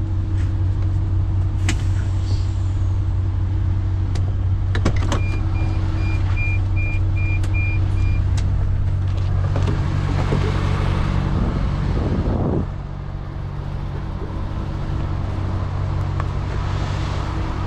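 Heavy truck's diesel engine idling steadily, heard from inside the cab. About five seconds in, a rapid electronic beeping runs for about three seconds; later a rushing noise swells and cuts off suddenly about two-thirds through, after which the engine sounds a little quieter.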